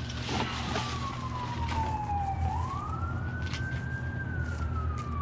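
An emergency-vehicle siren wailing, its pitch sliding slowly down, swinging back up about two and a half seconds in, then sliding down again. Beneath it runs a steady low hum, with a few light knocks and rustles.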